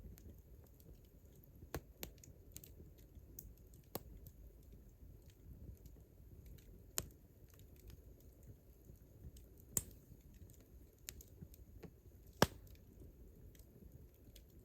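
Wood campfire crackling: irregular sharp pops and snaps over a low rumble, the loudest pop about twelve seconds in.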